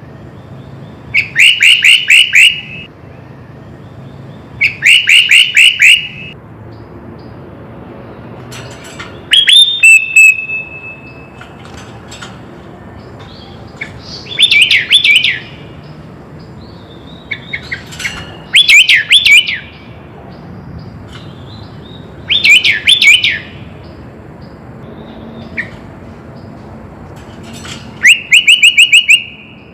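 Sooty-headed bulbul (kutilang) singing loud, short phrases of quick repeated chirping notes, about eight phrases a few seconds apart, one of them ending in a brief held whistle.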